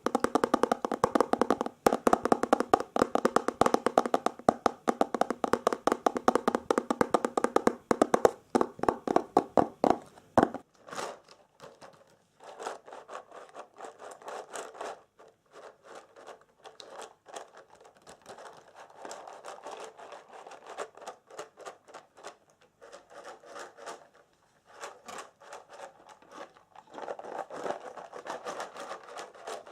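ASMR triggers: fast fingertip tapping on a resonant object that rings under the taps for about ten seconds. It then gives way to quieter, irregular scratching and rustling.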